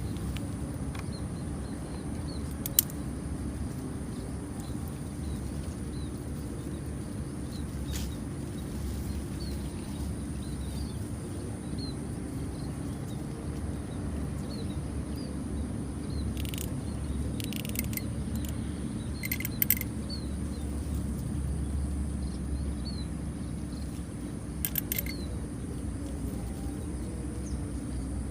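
Steady low rumble of outdoor background noise, with faint short high bird chirps repeating throughout and a few sharp clicks and taps.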